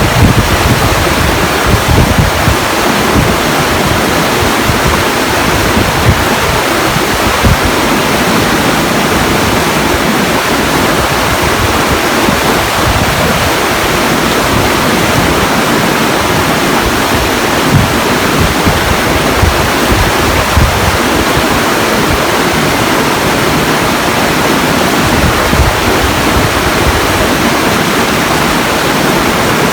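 Steady, loud rush of flowing water, with irregular low rumbles underneath.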